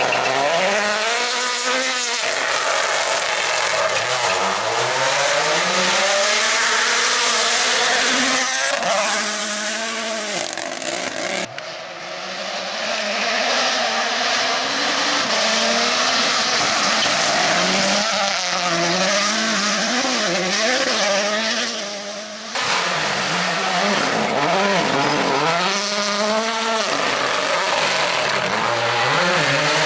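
Rally car engines at full throttle, the pitch climbing and dropping again and again as the drivers shift gears and lift off. The sound breaks off abruptly twice, about a third and two thirds of the way through, as a new pass begins.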